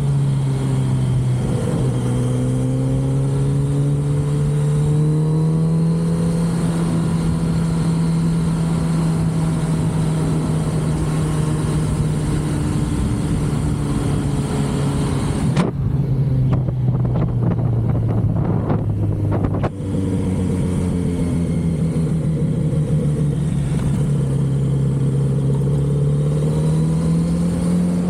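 Kawasaki Z900RS inline-four motorcycle engine through its stock exhaust, heard from the saddle while riding. The engine note climbs in the first few seconds and then holds steady. It falls away a little past halfway and picks up again near the end. Wind hiss runs over it except for a few seconds in the middle.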